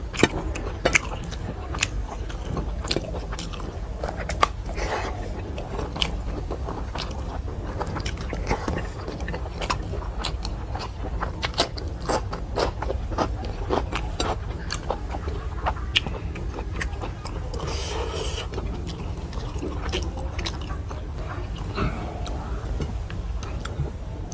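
Close-up eating sounds: a person chewing and biting a meal of rice and vegetable dishes, with many irregular wet mouth clicks and smacks. A steady low hum runs underneath.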